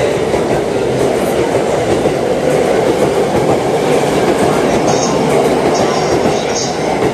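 Tokyo Waterfront Area Rapid Transit 70-000 series electric commuter train pulling out of the station alongside the platform, its cars rolling past with a loud, steady wheel-on-rail rumble. Some higher-pitched sounds join in about five seconds in, as the last car goes by.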